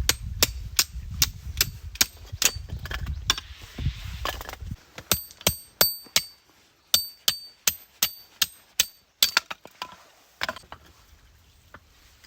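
Hammer striking metal in a rapid series, about two to three blows a second, each with a short ringing tone, as when driving a steel tent peg. The blows stop a little before ten seconds in, with a last pair near the end.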